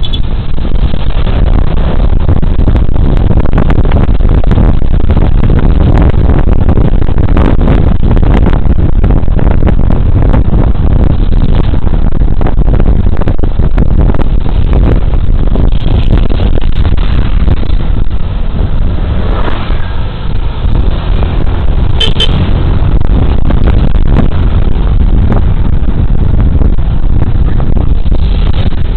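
Wind rumbling loudly over a body camera's microphone with engine and road noise underneath, while riding a Suzuki Burgman Street 125 scooter. A brief sharp sound stands out about two-thirds of the way through.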